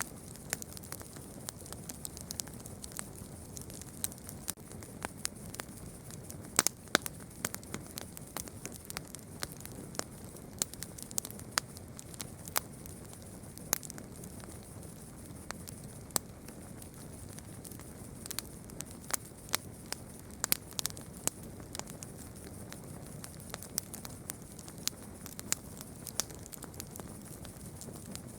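Campfire burning with a steady low rush and irregular crackles and sharp pops of burning wood. The loudest pops come about a third of the way in, near the middle, and about two-thirds of the way through.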